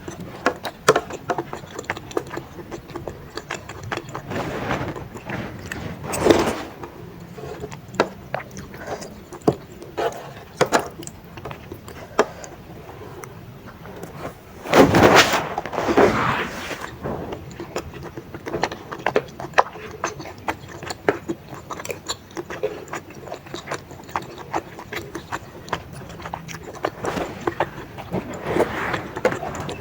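Close-miked eating sounds: chewing chewy baso aci tapioca balls in spicy broth, with many small sharp clicks throughout and a louder noisy stretch about halfway.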